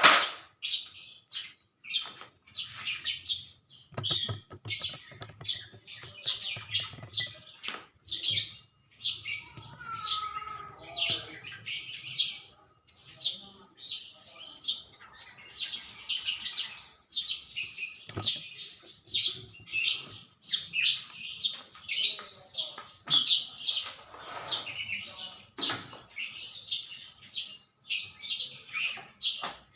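Small birds chirping continuously: rapid, short, high-pitched calls, several a second, with no pause.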